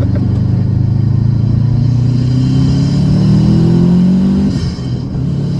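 2007 Subaru STI's turbocharged 2.5-litre flat-four accelerating hard, its engine note rising steadily for about four and a half seconds, then dropping as the driver changes gear.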